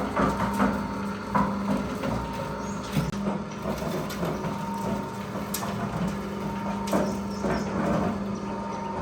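Restored concrete mixer running: a steady electric-motor hum with irregular knocks and clatter from the turning drum.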